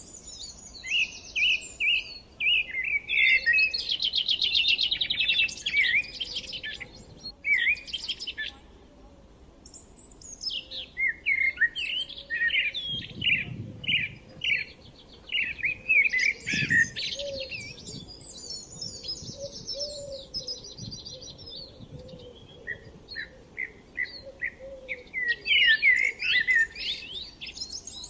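Forest songbirds chirping and singing, several different calls overlapping in quick bursts of short, repeated notes with brief lulls between them.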